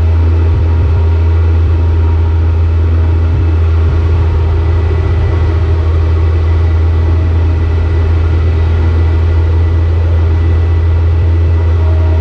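Large engine idling steadily: a loud, even low hum that does not change in pitch or level.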